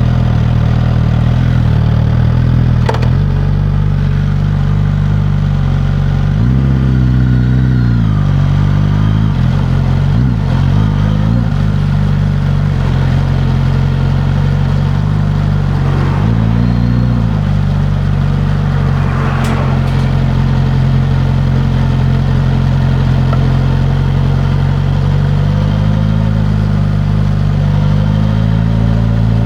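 Suzuki GSX-S1000's inline-four engine running through its stock exhaust, mostly at a steady pitch, with a few brief rises and falls as the throttle is worked. Two sharp clicks, one a few seconds in and one past the middle.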